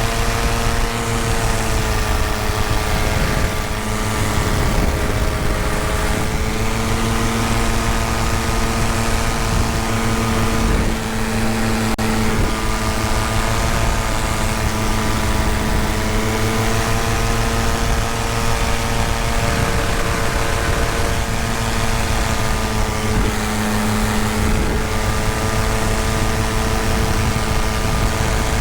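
Tandem paramotor's engine and propeller running steadily at cruise in flight, a constant drone whose pitch rises and falls slightly now and then.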